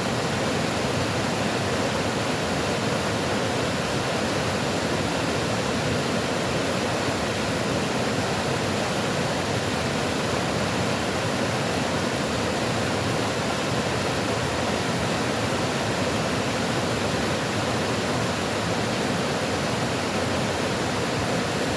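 Water rushing steadily, an even unbroken hiss of flowing water with no change in level.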